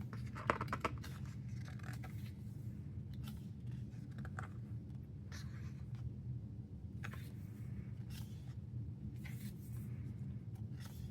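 Pages of an album photobook turned by hand: scattered rustles and slides of thin, metallic-finish paper over a steady low hum.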